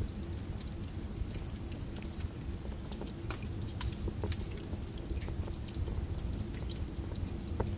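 Wood fire burning in a fireplace: a low steady rumble of flames with frequent small crackles and pops from the burning logs, one sharper pop about four seconds in.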